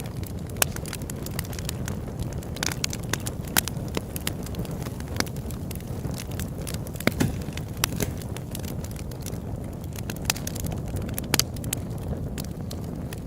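Open-air wood campfire burning: a steady low rush of flames with irregular crackles and a few louder sharp pops.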